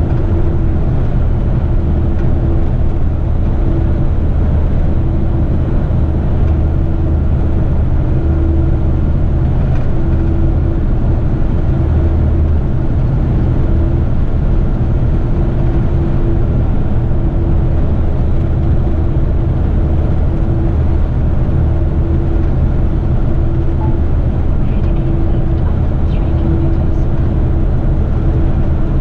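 Heavy truck's engine running steadily under way, a constant low drone with a steady hum above it.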